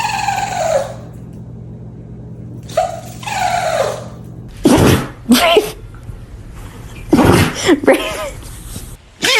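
A dog sneezing repeatedly, in a run of sharp sneezes about halfway through and another run a couple of seconds later.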